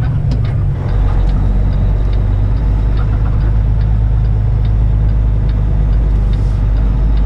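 Semi truck's diesel engine running slowly, its low drone dropping deeper about a second in, with a light regular ticking about three times a second.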